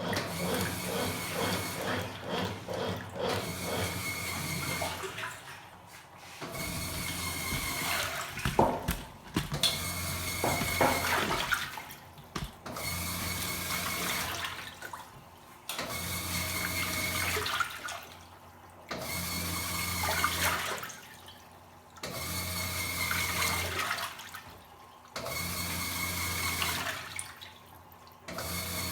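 Top-loading washing machine agitating a load in water: the motor runs for about two seconds, pauses about a second, then runs again in a steady repeating cycle, with water sloshing around the clothes.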